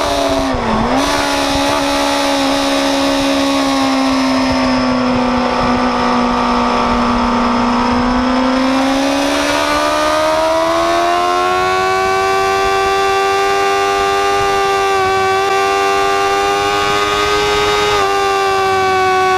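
Kawasaki ZX6R inline-four engine at high revs, heard from on board. Its pitch drops sharply just after the start as the rider backs off, stays lower for several seconds, then rises steadily again about halfway through under acceleration and holds high. Wind rushes underneath.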